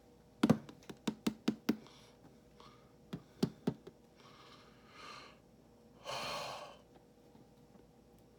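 Packaging and a boxed vinyl figure being handled: a quick series of sharp clicks and taps, then two short hissing rustles or breaths.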